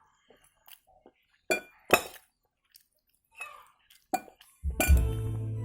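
A few sharp, separate clinks of cutlery against a dish during a meal. Music starts near the end.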